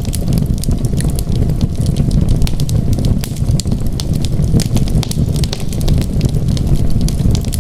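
Wood fire crackling in a fireplace: frequent sharp pops and snaps at irregular intervals over a steady low rumble.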